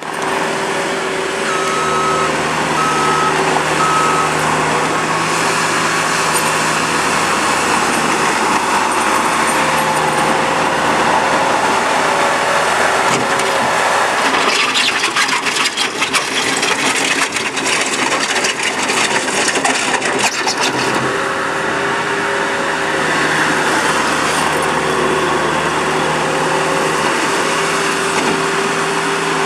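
Bobcat T300 rubber-track skid steer working, its diesel engine running steadily under load, with a reversing alarm beeping three times about two seconds in. A stretch of clattering in the middle.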